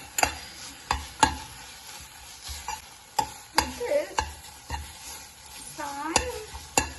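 A utensil stirring sauced instant noodles in a hot pan: irregular sharp knocks and scrapes against the pan every half second or so, over a faint sizzle. A short wavering voice-like sound comes near the end.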